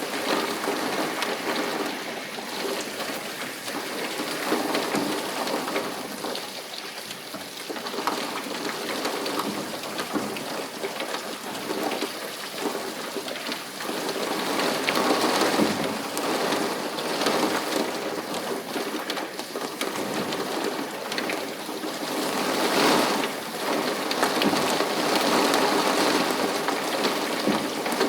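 Heavy rain falling, a dense steady hiss flecked with drop ticks that swells and eases over several seconds, loudest in the middle and near the end.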